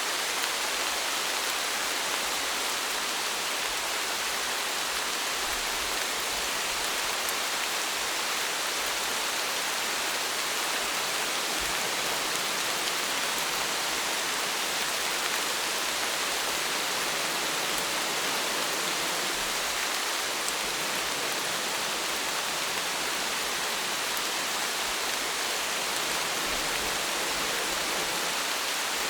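Steady rain falling, an even hiss of many small drops with faint individual drop ticks.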